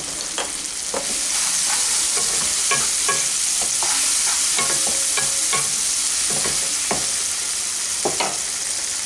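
Chopped onion and tomato sizzling in oil in a non-stick pan while a spatula stirs in freshly added turmeric and red chilli powder, with irregular scrapes and taps of the spatula on the pan. The sizzle grows louder about a second in as the mixture is turned.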